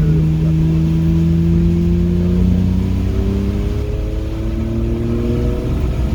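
Car engine accelerating hard on track, its pitch rising. It drops briefly about three and a half seconds in as it shifts up a gear, then climbs again.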